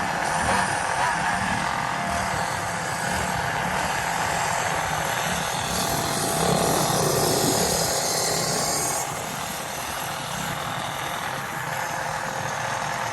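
Small gasoline engine running steadily on a ridden dirt bike, Go-Ped or mini bike.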